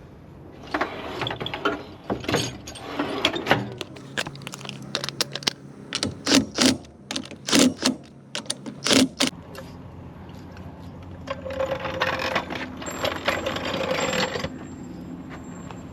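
Lug bolts being fitted to a wheel: a run of metallic clicks and clanks with ratcheting. Near the end, a steady mechanical whir runs for about three seconds.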